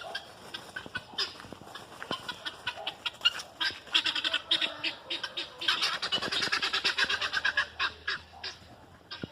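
Farm poultry calling: a run of quick, harsh squawks and honks that thickens into a loud, rapid cackling chorus in the middle.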